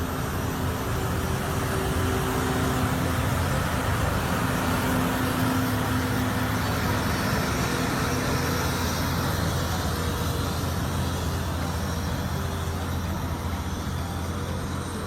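Heavy truck engine running steadily under a broad haze of road noise.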